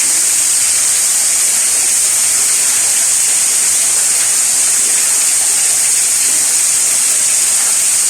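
Heavy rain falling, a steady, even hiss with no single drops or changes standing out.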